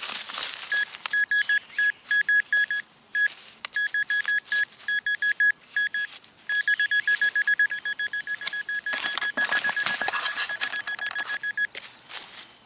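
Metal detector beeping on a buried coin target, which turns out to be a nickel. The high beeps, all at one pitch, come in short irregular bursts at first, then turn rapid and almost continuous from about six and a half seconds until just before the end, while scraping and crunching noises of digging come and go.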